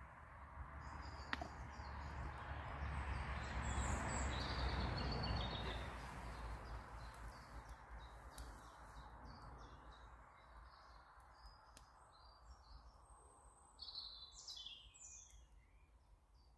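Small woodland birds chirping, with a cluster of calls near the end, over a rushing noise that swells to its loudest a few seconds in and then fades away.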